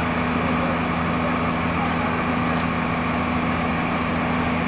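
A steady, unchanging mechanical drone with a constant low hum, like a large engine running.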